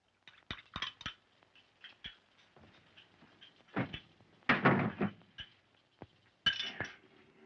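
Glass bottles and glassware clinking and knocking against each other and a tabletop in a run of short clinks, with a louder clatter about four and a half seconds in and another near the end.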